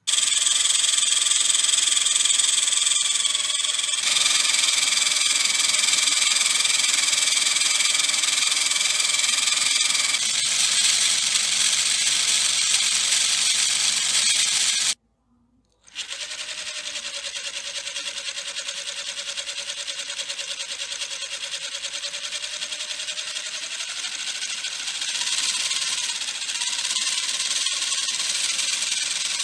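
Small electric motor whining as it drives a homemade PVC model mechanism, its pitch shifting with speed. It cuts out for about a second midway, then runs again at a lower, steadier pitch.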